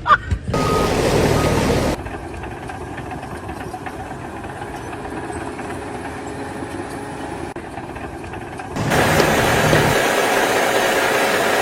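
A machine's engine running steadily. The sound drops suddenly about two seconds in and grows louder again near the end.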